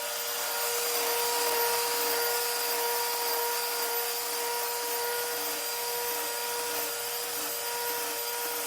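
Power tool motor running steadily, a constant whine over an even hiss.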